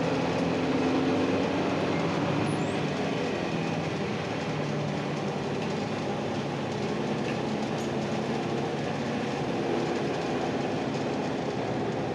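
Cabin noise of a moving Ikarus-260 bus: its diesel engine running under a steady rumble of tyres and rattling body. The engine note dips slightly in the first couple of seconds.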